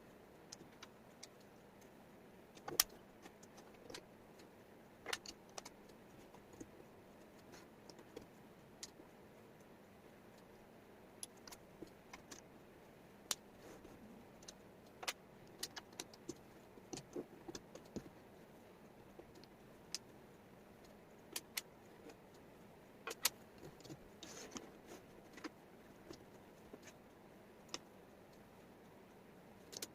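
Small wooden jigsaw puzzle pieces clicking and tapping as they are handled and set down on a table: faint, irregular light clicks, a few a second, over a low steady hiss.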